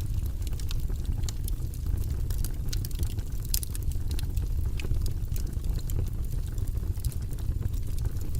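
Fire burning in a fireplace: a steady low rumble of flames with many small, irregular crackles and pops.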